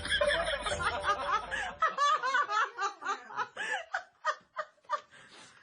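Snickering laughter in quick short bursts, over a low hum that stops about two seconds in.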